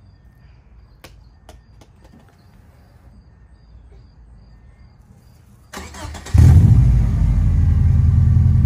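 A 1995 Subaru Impreza's 2.2-litre EJ22 flat-four, fitted with an unequal-length header and a Cobb STi cat-back exhaust, cranks on the starter for about half a second and catches about six seconds in. It then settles into a loud, steady idle with a low note.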